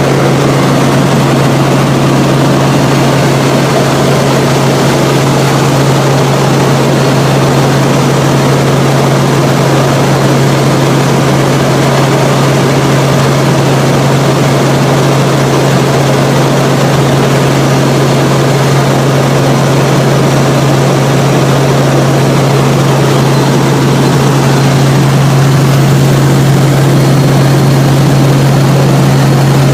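Helicopter in flight: a loud, steady engine and rotor drone with a strong constant low hum, unchanging throughout.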